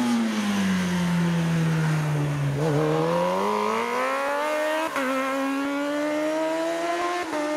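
A racing superbike motorcycle's engine: its revs fall for about two and a half seconds, then climb hard with upshifts about five and seven seconds in as it accelerates up the hill-climb course.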